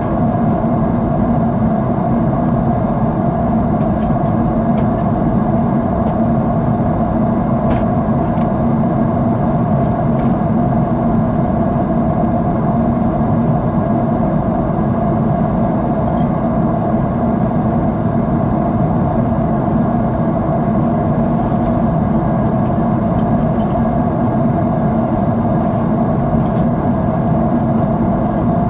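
Jet airliner cabin noise in cruise: the steady roar of the engines and airflow heard from a window seat, with a constant low hum.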